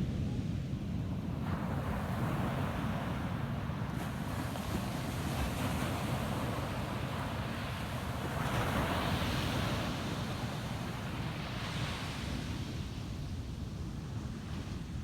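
Ocean waves breaking and washing up a sand beach: a hiss that swells about a second and a half in, peaks past the middle, surges once more and eases off near the end, over a steady low rumble.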